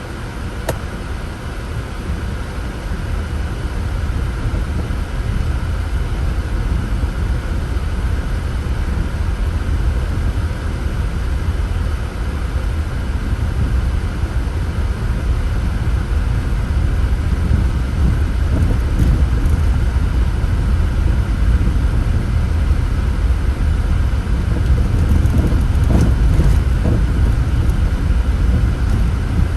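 Car driving, heard from inside through a dashcam: a steady rumble of engine and tyre noise that builds over the first several seconds as it gathers speed, then holds.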